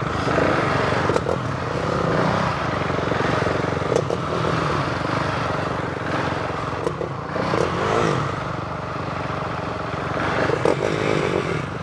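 Motorcycle engines running at low revs with small throttle changes as the bikes creep along slowly, with a few sharp clicks and clatter.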